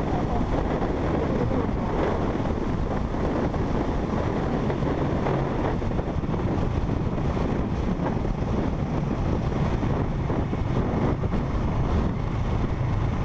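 Motorcycle riding at a steady pace: a parallel-twin engine running under a constant rush of wind buffeting the microphone, with no marked rise or fall in revs.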